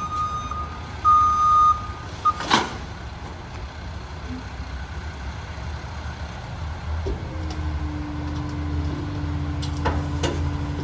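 International HV garbage truck's reversing alarm beeping steadily, stopping about two seconds in, followed by a short sharp hiss. The truck's diesel engine then runs on, and about seven seconds in a steady higher drone comes in over it.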